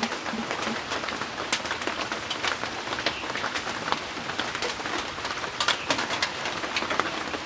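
Steady rain falling: a continuous hiss dotted with many sharp drop hits.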